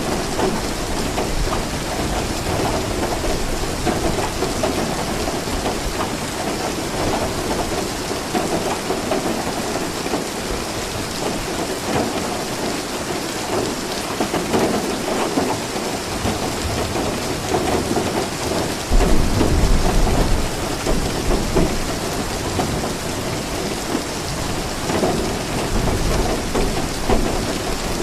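Steady rain pouring, with thunder rumbling in the distance; a louder low roll of thunder swells about two-thirds of the way through.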